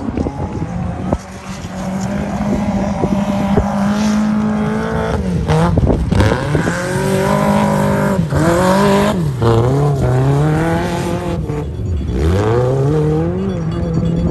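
Rally car engine on a gravel slalom course, running steadily at first, then from about five seconds in revving hard, its pitch climbing and dropping sharply again and again as the driver works the throttle and gears through the turns.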